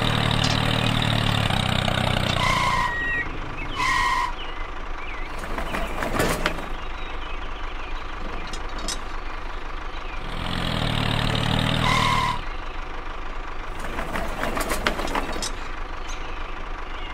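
Tractor engine sound running at idle, dropping away about three seconds in and coming back briefly around ten to twelve seconds. Three short beeps sound over it.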